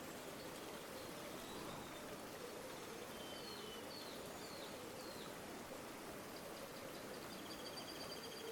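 River water flowing steadily. A small bird gives a few short high chirps about halfway through and a rapid trill near the end.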